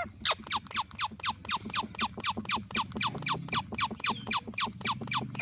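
Pet parrot calling in a rapid, even series of short downward-sweeping chirps, about five a second.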